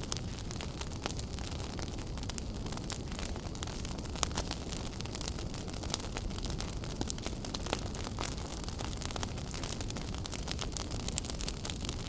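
Fire burning in a fireplace, crackling: a steady low rumble of flame with frequent sharp pops and snaps scattered throughout.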